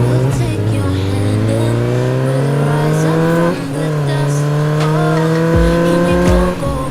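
Vehicle engine accelerating hard: its pitch climbs steadily, drops once at a gear change about halfway through, then climbs again. Music with a thumping bass beat comes in near the end.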